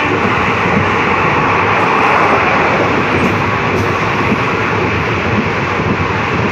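Passenger train running at speed, heard from inside a coach by an open window: a steady rumble of wheels on the rails mixed with rushing air.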